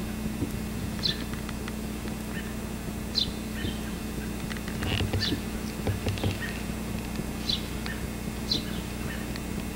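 A bird chirping repeatedly outdoors: single short, high chirps that slide downward, one every second or two, over a steady low hum, with a few soft thumps around the middle.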